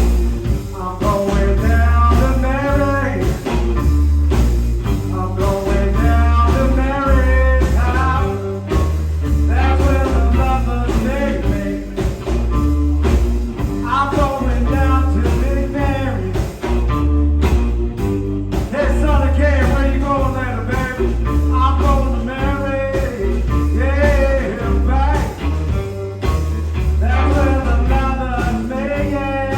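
Live blues-rock trio playing: electric guitar, electric bass and drum kit, with a heavy, steady bass beat.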